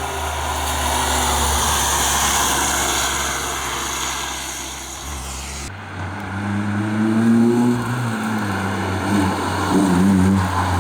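Historic rally car engines at full stage speed, in two shots. First a steady engine note under tyre and wind noise. Then, after a sudden cut a little over halfway through, another car revving hard, its pitch climbing and dropping as it changes gears.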